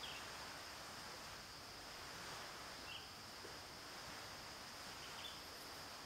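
Sparse, faint bird chirps: three short calls a couple of seconds apart, over a steady high-pitched drone.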